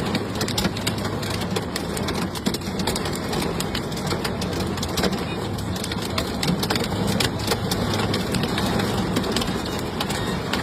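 Hailstorm: hailstones pelting hard surfaces in a dense, continuous patter of sharp clicks over a steady rush of heavy rain, with a steady low hum underneath.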